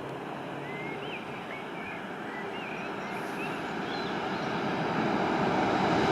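An approaching train's rumble growing steadily louder as it nears. Small birds chirp a few times over it in the first half.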